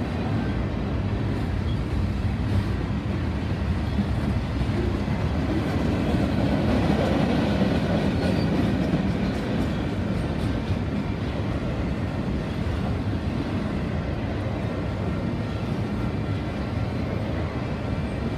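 Freight cars of a passing train, boxcars and then autorack car carriers, rolling by on steel wheels: a steady rumble of wheels on rail that swells a little in the middle.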